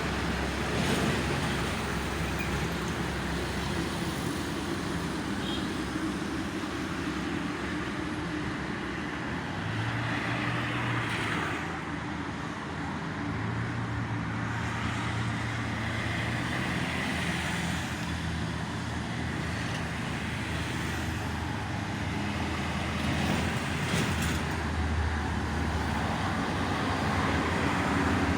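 Steady toll-road traffic passing continuously, with the low engine hum of heavy vehicles swelling and fading several times as they go by.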